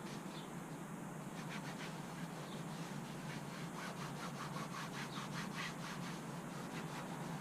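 Rhythmic back-and-forth hand rubbing on engine-bay plastic as a trim coating is worked in. The strokes quicken in the middle to about four or five a second, over a steady low hum.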